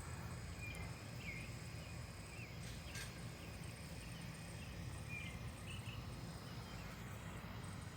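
Outdoor yard ambience: a steady high insect drone with a few short, faint bird chirps.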